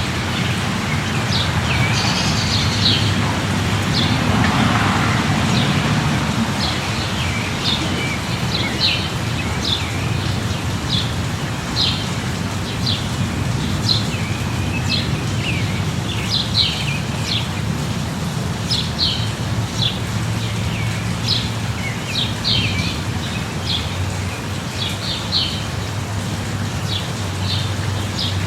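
Steady light rain with birds chirping throughout, short high chirps coming every second or so, over a low steady rumble. A few seconds in, a broader swell of noise rises and fades.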